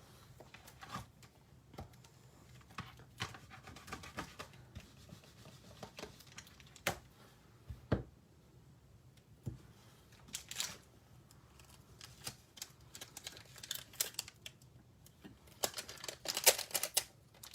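Scattered light clicks, taps and rustles of rubber stamps, an acrylic stamping block and cardstock being handled and pressed down on a desk. A denser run of rustling and clicking comes near the end.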